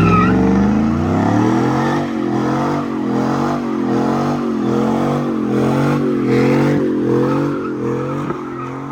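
Car engine revved up hard and held at high revs, its pitch rising and dipping about once a second, over the hiss of spinning tyres: a burnout. It lets off near the end.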